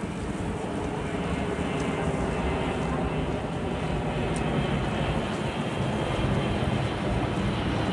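Four-engined Emirates Airbus A380-861's Engine Alliance GP7200 jet engines rumbling as the airliner arrives, growing steadily louder.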